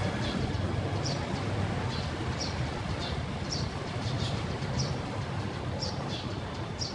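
A bird chirping: short high notes that drop in pitch, repeated every second or so, over a steady low rumble and hiss.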